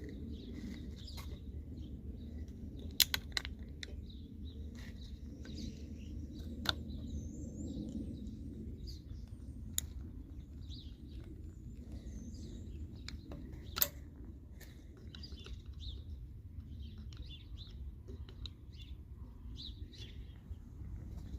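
Small birds chirping intermittently over a steady low background rumble, with a few sharp clicks or taps scattered through, the loudest about three seconds in.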